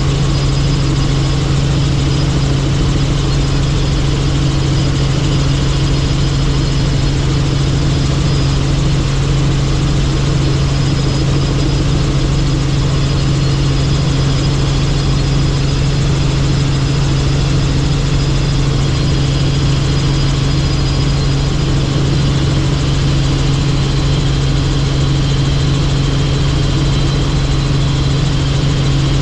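Helicopter in flight: a steady, unbroken drone of the rotors and turbine engine, with a strong low hum and fainter higher whines over rushing noise.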